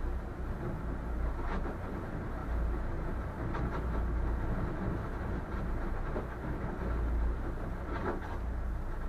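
Steady low rumble of a boat under way through ice, with a few brief crunches of ice against the hull, the clearest near the end.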